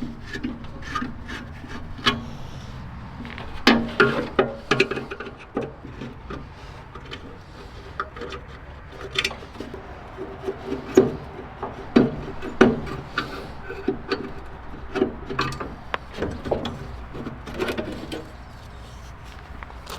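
Irregular knocks, clinks and scraping of hand-tool work while stripping parts from an old pickup truck, with louder knocks in clusters.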